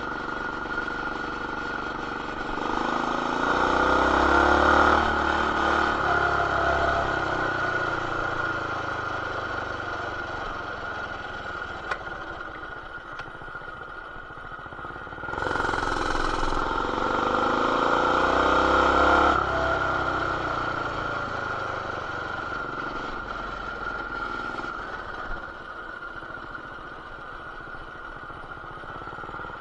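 BT200X mini bike's small single-cylinder engine, fitted with an aftermarket intake, header and RLV exhaust, running under way. It speeds up with a rising pitch about three seconds in and again about halfway, and after each speed-up it eases back to a lower steady drone.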